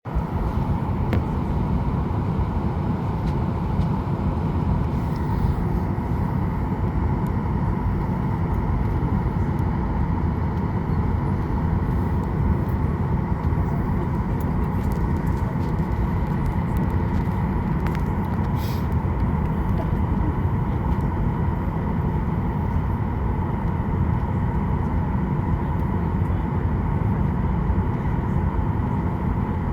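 Steady cabin noise inside a Boeing 737-800 before takeoff: a low rumble and rush of air with a faint steady whine, and a few faint clicks.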